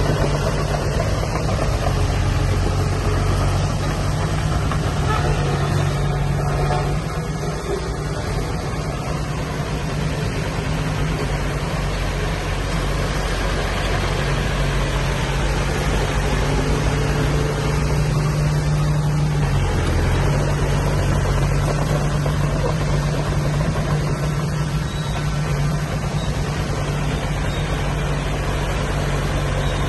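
Diesel engine of heavy earthmoving machinery running steadily, its pitch shifting briefly twice as the load changes.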